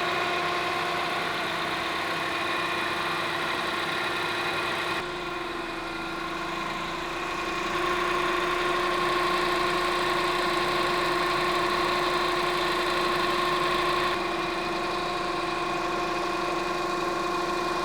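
2009 Honda Accord engine idling with the air conditioning on full, during a refrigerant recharge: a steady hum that dips slightly about five seconds in and comes back up a few seconds later.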